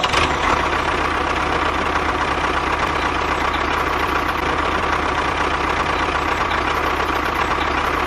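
A small motor running steadily, with a faint constant whine.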